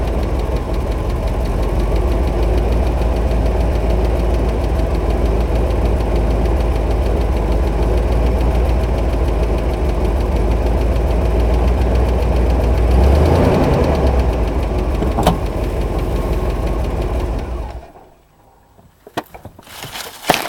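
1983 Buick LeSabre engine running steadily, with a brief light rev about thirteen seconds in. The engine sound drops away sharply near the end, followed by a few scattered knocks and rustles.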